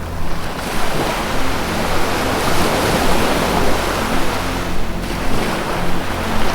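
Ocean surf washing in and drawing back in swells, over a soft, sustained low music drone.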